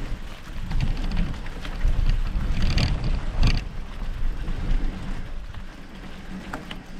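Rumbling wind on the microphone and the rattle of an e-bike riding over rough forest ground, with two sharp knocks about three seconds in.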